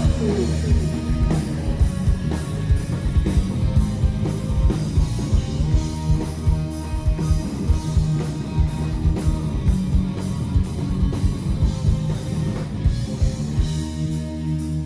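Live rock band playing a loud song: a steady drum beat of about two hits a second under electric guitars. Near the end the drums stop and a chord is held.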